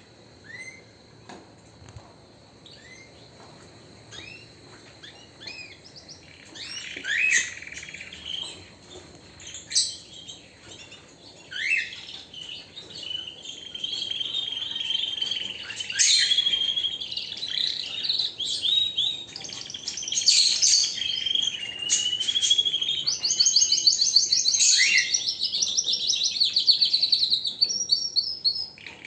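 Domestic canary singing: sparse, quieter chirps for the first several seconds, then a loud, continuous song of warbling phrases from about halfway, with a fast rolled trill near the end.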